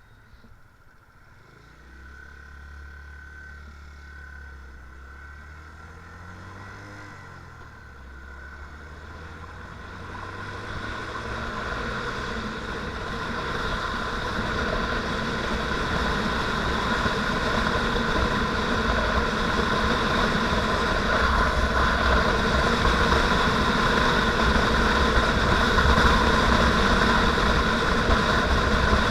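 Motorcycle engine pulling away, its pitch rising and falling through the gears. From about ten seconds in, a steady rush of riding noise builds up and grows much louder.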